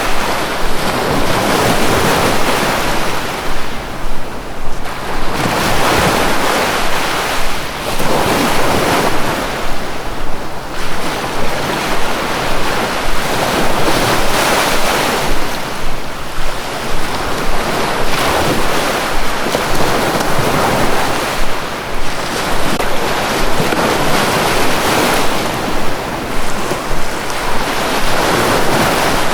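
Sea waves washing onto a shore, a steady rushing surf that swells and eases every few seconds, with wind noise mixed in.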